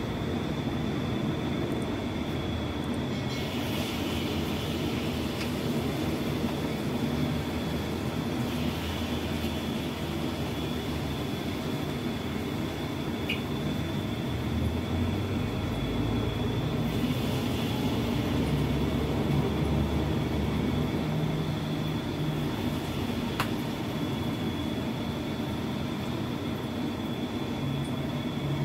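Sweet potato pieces frying in hot oil in a wok: a steady sizzle over a low, steady rumble, with a couple of light clicks from the spoon and bowl.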